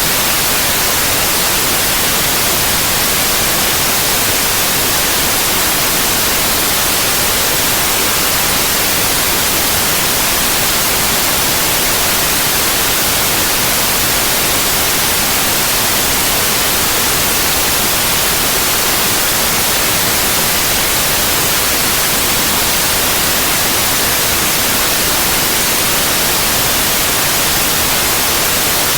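Steady white noise: an even, unchanging hiss, heaviest in the treble.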